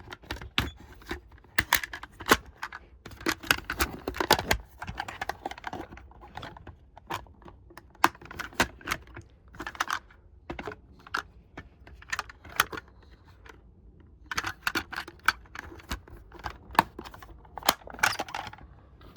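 Irregular clicks, clacks and small rattles of a diecast toy truck and trailer being handled, hard plastic and metal parts knocking together.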